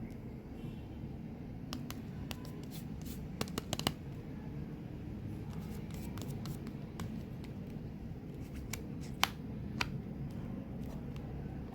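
Hands handling and unwrapping gum and mint packaging: scattered sharp clicks and crinkles, a quick cluster of louder ones a few seconds in and two more near the end, over a steady low background noise.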